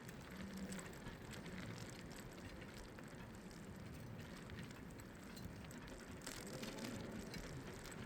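Bicycle rolling along a path, with a light ticking like a freewheel hub's pawls and tyre noise.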